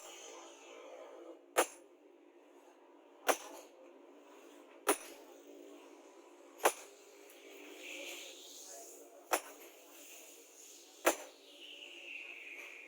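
Single sharp hammer blows on metal, struck at an even pace of about one every one and a half to two seconds, seven in all.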